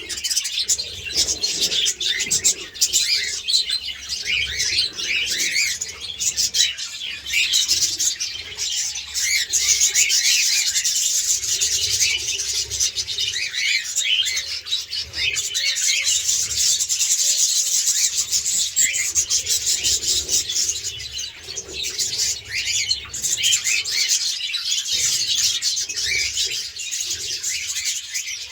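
A flock of budgerigars and cockatiels chirping and chattering without pause, with wing flapping now and then.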